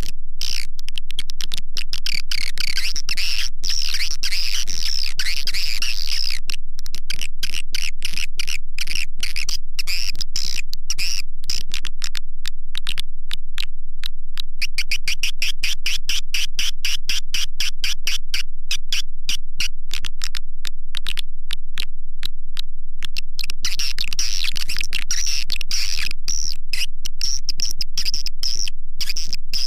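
Swiftlet lure call track for a swiftlet nest house: electronically processed swiftlet twittering over a dense stream of rapid clicking pulses. The chirping is loudest in the first few seconds and again near the end, and softer in between.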